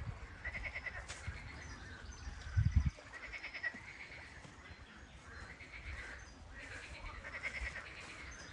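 An animal calling again and again, a short wavering call about every second or so, with a couple of low thumps about a third of the way through.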